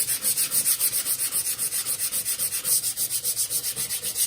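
Sandpaper rubbed by hand over a wooden stair tread in quick back-and-forth strokes, several a second, sanding filled nail holes flush.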